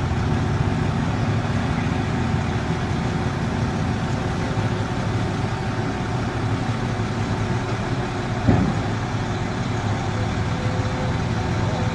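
Truck engine running steadily at a low, even pitch. A single short knock or thump about eight and a half seconds in.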